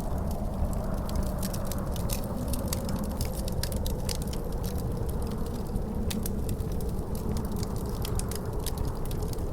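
Wood fire crackling with many small sharp pops, over a steady low rumble and a faint wavering howl of wind.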